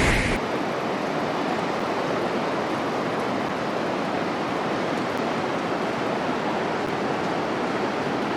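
Steady rushing of a swollen river in flash flood, an even noise without breaks.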